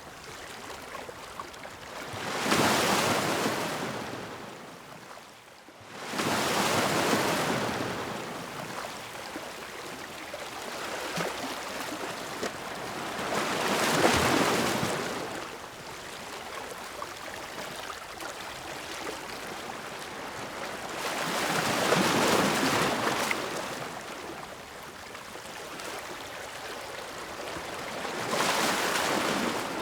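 Ocean waves breaking and washing ashore, a hissing surf that swells and fades about every five to eight seconds, with a quieter steady wash between the breakers.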